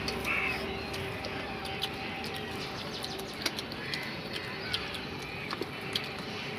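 Scattered small clicks and taps of people eating rice and mutton curry by hand, over a faint steady hum. A bird calls briefly near the start, with faint bird calls behind.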